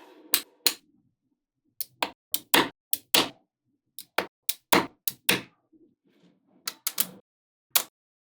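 Small magnetic balls snapping onto one another in sharp clicks, about twenty of them at irregular intervals, with soft rattling of the balls between the clicks.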